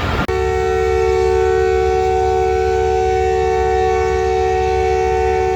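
Diesel locomotive's air horn sounding one long, steady chord of several notes, blown as the departure signal clears, over the low steady rumble of the engine.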